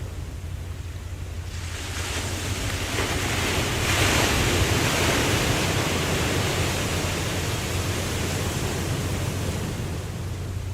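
Ocean waves: a wave builds, breaks and washes out, swelling about a second and a half in, loudest a few seconds in, then slowly fading, over a steady low rumble of surf.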